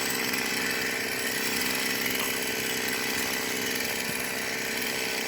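Two-stroke chainsaw running steadily at an even pitch, heard from some distance.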